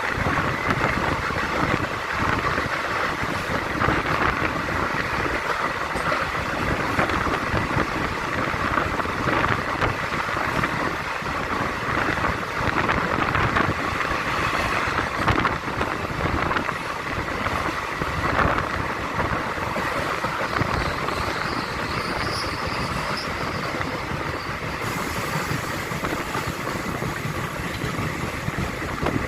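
Passenger train running: a steady rumble with rattling.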